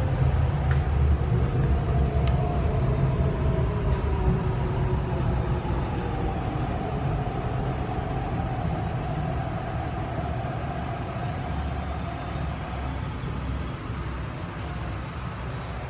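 An MTR R-Train electric multiple unit braking into a station, heard from inside the car. A steady rumble of wheels on track, with a faint whine from the traction equipment that slides in pitch. The whole sound slowly grows quieter as the train slows.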